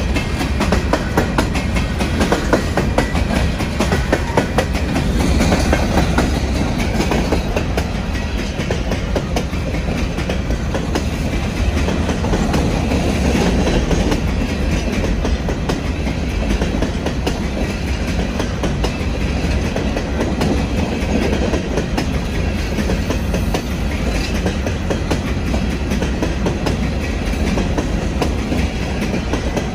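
Empty freight hopper cars rolling past, their steel wheels rumbling steadily with a continuous run of clicks over the rail.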